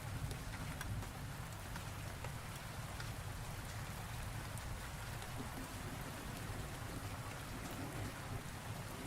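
Steady rain falling, with many fine droplet ticks over a low, steady rumble.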